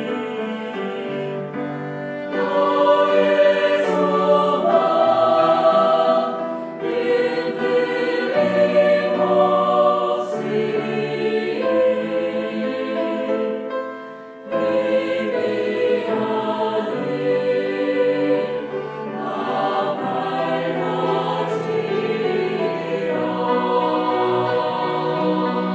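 Church choir singing a hymn anthem in Korean, mixed voices holding long sustained notes, with a brief break between phrases about fourteen seconds in.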